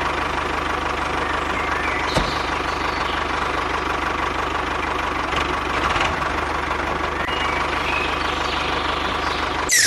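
A small engine running steadily at idle, with a fast, even pulsing and a steady hum.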